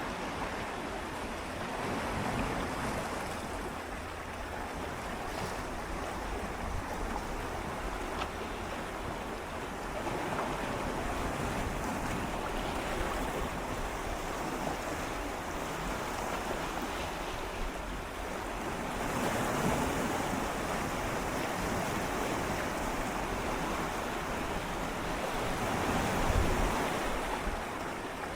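Gentle sea waves lapping and swirling against shoreline rocks, recorded close up, a steady wash that rises in slow surges every several seconds, the strongest near the end.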